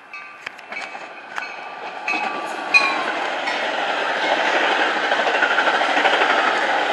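Metra express commuter train, a locomotive and bilevel cars, passing at speed without stopping: wheels rushing and clattering over the rails, growing louder about two seconds in as the locomotive draws level, then a steady loud run of passing cars. In the first few seconds grade-crossing warning bells ring alongside.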